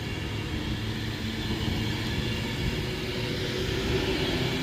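A train running with a steady rumble and a low, even hum.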